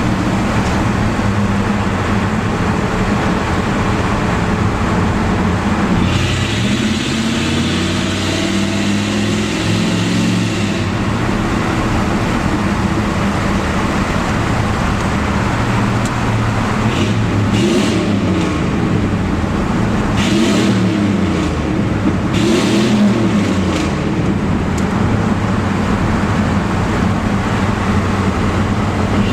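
A 1987 Pontiac Trans Am's 5.7-litre V8 exhaust runs loud and echoes in a road tunnel. Its pitch slides down about six seconds in, then rises and falls a few times past the middle as the revs change.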